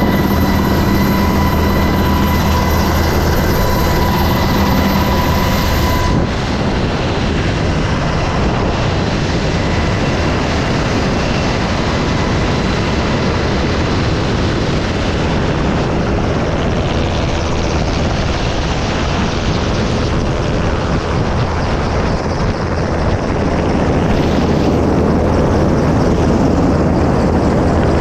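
Helicopter running close by, a steady rush of rotor and engine noise. A whining tone over it stops abruptly about six seconds in and partly comes back near the end.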